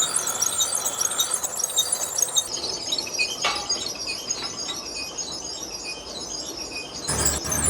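Dense, rapid metallic clinking and ticking, like small metal parts or tools knocking together. The sound changes abruptly about two and a half seconds in and again near the end.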